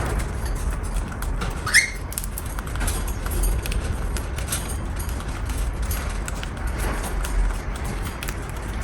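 A cockatiel gives one short rising chirp about two seconds in, over scattered small clicks and scratches and a steady low rumble.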